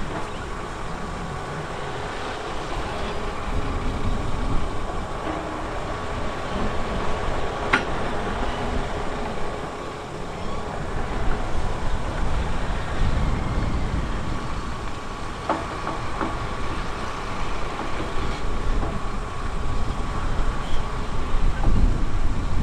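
Diesel engine of heavy earthmoving machinery running steadily, with a faint steady whine and a few sharp knocks, about 8 seconds in and again around 15 seconds.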